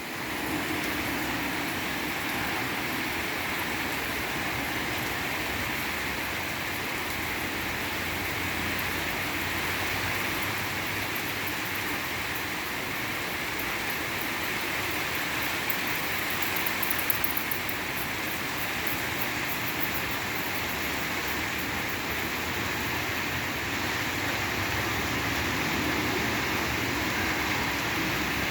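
Steady autumn rain falling, an even hiss, with a brief flurry of sharper drop ticks about halfway through.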